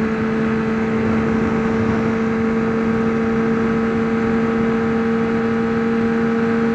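2003 Honda CBR600RR's inline-four engine holding a steady note at constant cruising speed, with wind rushing over a helmet-mounted action camera.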